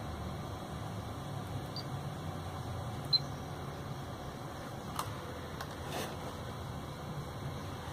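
Pioneer AVH-P6380BT car head unit running a BSM station-memory search: a steady faint hiss and low hum, one short high beep about three seconds in as the search starts, then two light clicks a second apart.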